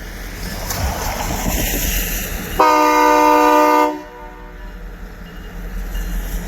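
Union Pacific diesel locomotive's air horn sounding one blast of about a second and a half, a little past the middle, over the steady rumble of the locomotive and train.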